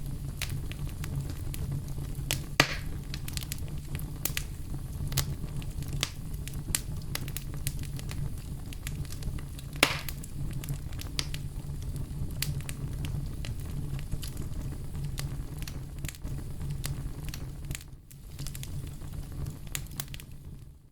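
Campfire burning: a steady low rumble of flames with irregular sharp crackles and pops from the burning wood, two of them louder, about two and a half and ten seconds in. The sound dips briefly near the end.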